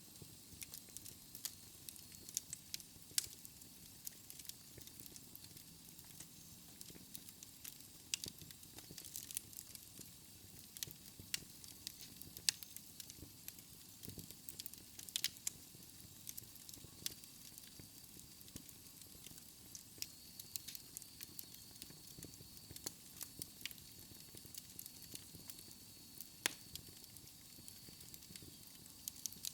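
Wood fire burning in a fireplace, crackling with frequent irregular sharp pops over a soft hiss.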